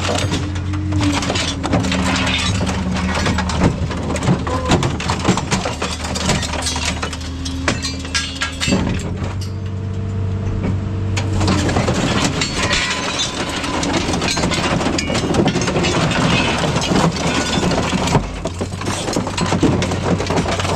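Scrap metal clattering and clanking as it is handled, with a steady machine hum underneath; the clatter eases for a couple of seconds about nine seconds in, when a droning machine tone comes through.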